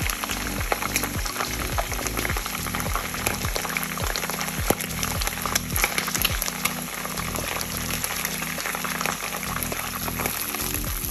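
Chicken wings frying in hot oil in a pan: a steady crackling sizzle with frequent sharp spits and pops. Background music with a low beat plays underneath.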